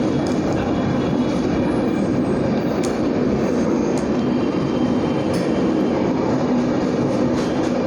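Train moving on the rails: a steady loud rumble with a few sharp clicks from the wheels over the track.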